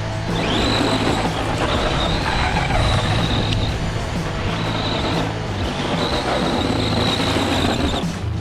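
Brushless electric motor of a Tamiya Monster Beetle RC monster truck whining high in several bursts of throttle, the pitch rising as it spools up. Background music plays under it.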